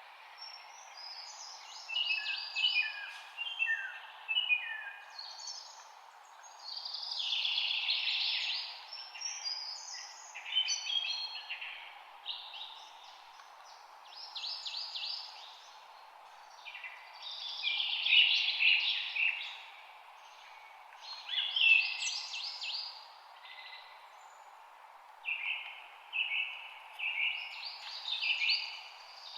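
Several songbirds singing, in trills and chirping phrases that come every second or two and sometimes overlap, over a steady low background hiss.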